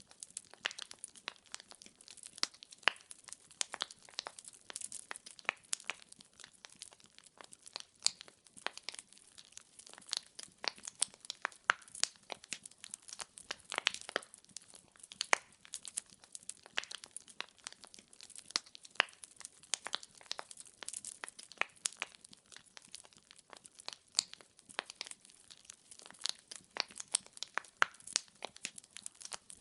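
Wood fire crackling in a fireplace: irregular sharp pops and snaps of burning logs over a faint hiss.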